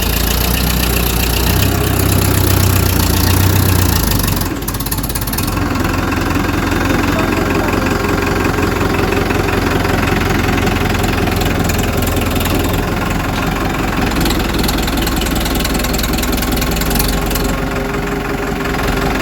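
Tractor engine running, louder and heavier for the first four seconds, then dipping briefly and settling into a steady, knocking idle.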